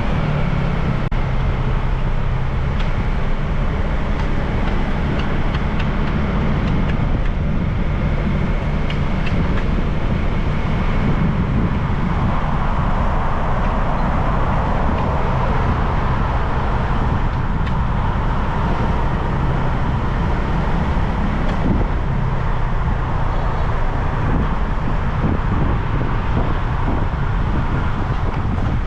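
Motorbike engine running steadily while riding through city traffic, with a low wind rumble on the microphone.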